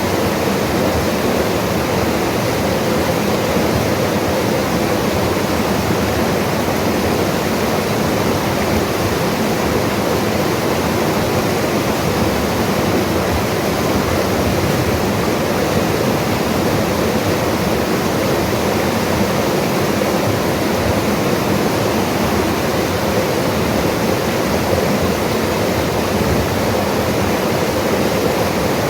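Mountain river rushing steadily over rocks, a constant full white-noise rush of water.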